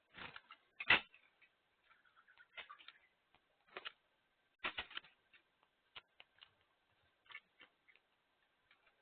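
Birds pecking and cracking seed at a feeder: irregular sharp taps and clicks, some in quick clusters, the loudest about a second in.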